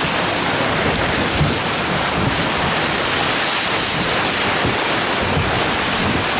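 Steady rush of wind buffeting the microphone and water rushing along the hull of a boat under way.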